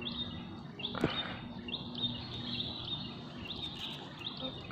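A bird chirping over and over, short high chirps about two a second, over a faint low background hum. A single sharp click about a second in.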